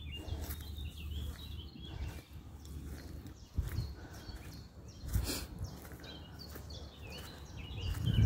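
Small songbirds chirping and singing, many short high calls, over a low rumble, with a couple of soft knocks in the middle.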